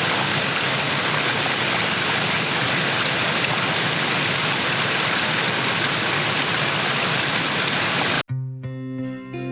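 Steady rushing of water, an even hiss like heavy rain or a stream, that cuts off suddenly about eight seconds in. Guitar music follows.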